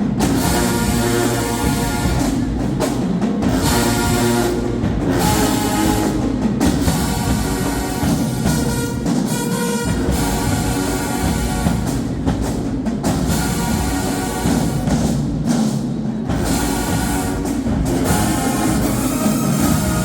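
Marching band playing: brass over bass drums and percussion, in loud phrases with short stops between them.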